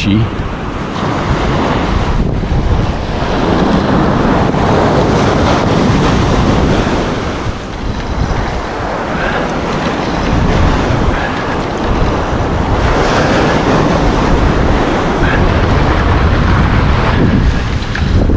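Surf washing onto a beach, swelling and easing, with wind buffeting the microphone.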